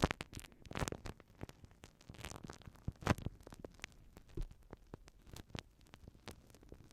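Glue stick worked against a binaural ear microphone: close, irregular sticky crackles and scraping strokes.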